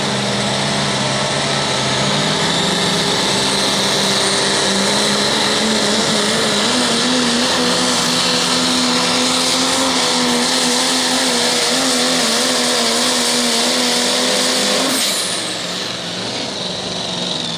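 Pro Stock diesel pulling truck's engine at full throttle under load of the sled: the pitch climbs about two seconds in, then holds, wavering, over a loud high hiss. Near the end the engine lets off and the sound drops, with a high whine falling away.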